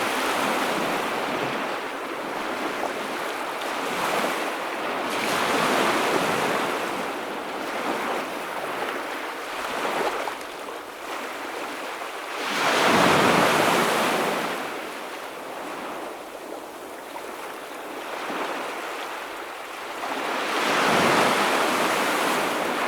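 Ocean waves breaking and washing on the shore, in swells every few seconds, the biggest about halfway through and another near the end. Light wind on the microphone.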